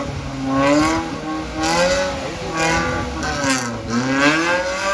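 Off-road 4x4 engines revving hard under load, pitch rising and falling about once a second as the throttle is worked.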